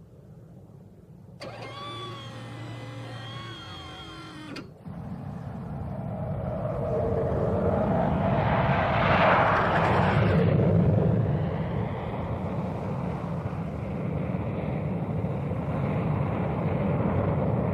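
Jet aircraft engines swelling as the plane comes in to land, loudest about halfway through and then running on steadily. This follows a few seconds of wavering pitched tones near the start.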